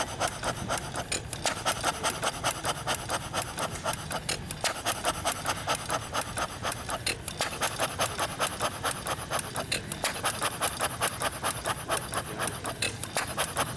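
Half-scale Fairbanks Morse Model T vertical hit-and-miss engine running, a steady mechanical clatter of about five beats a second with short lulls every few seconds.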